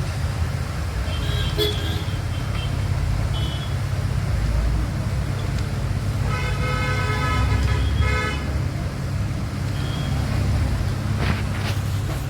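A vehicle horn sounds for about two seconds midway, over a steady low engine or road-traffic rumble, with a few short high beeps around it.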